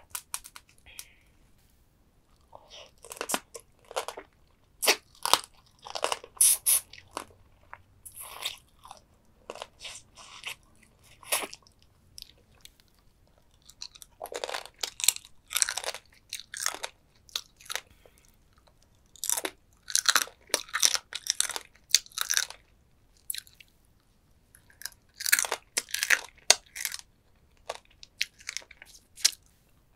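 Close-miked crunching and chewing of soy-sauce-marinated stone crab, in bursts of sharp crunches a few seconds long separated by short pauses.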